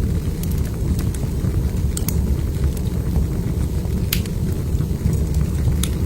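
Wood fire burning in a fireplace: a steady low rumble with a few sharp crackling pops, two close together about two seconds in, the loudest about four seconds in and another near the end.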